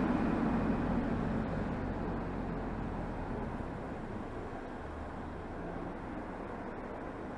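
BMW 320xd's 2.0-litre four-cylinder turbodiesel (B47D20) exhaust and road noise, heard at the tailpipe, fading over the first few seconds as the car comes off a hard acceleration, then settling into a steady low drone at city-driving speed.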